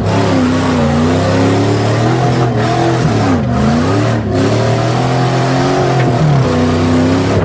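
Jeep Grand Cherokee's 4.7-litre V8, heard from inside the cabin, revving up and down as it drives over rough off-road ground. The pitch drops sharply about a third of the way in and again near the end.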